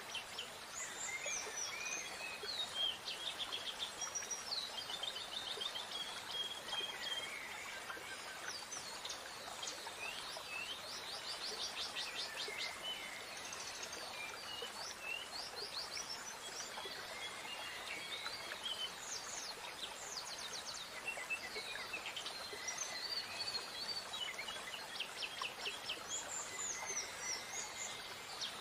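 Several songbirds singing outdoors, with overlapping chirps, short whistled phrases and rapid trills, over a steady background hiss.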